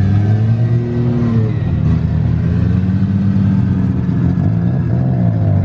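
A car engine running close by, its pitch rising a little about a second in and dipping near the end, like a car moving slowly or being blipped.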